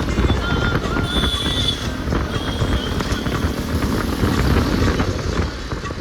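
Road travel noise: a steady low vehicle rumble with street noise, and a few brief high-pitched tones in the first two seconds.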